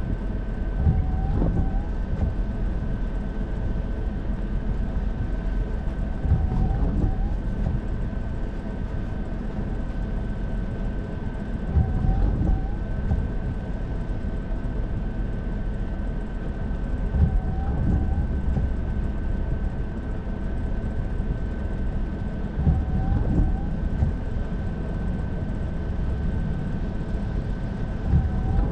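Car driving in heavy rain: steady road, tyre and rain noise with a thin steady high whine. A windshield wiper stroke thumps and squeaks about every five and a half seconds.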